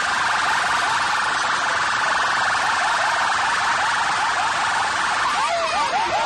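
A rapid electronic siren-like chirp, short rising whoops about four a second, played loud through a DJ competition sound system over a dense wash of noise; near the end the chirps turn irregular.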